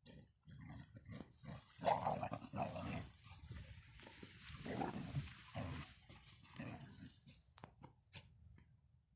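A dog making a run of short, irregular sounds, loudest in the middle and stopping about eight seconds in.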